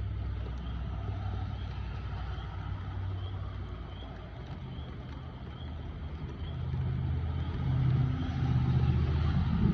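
Thunder rumbling low and long, building louder over the last few seconds, over a steady hiss.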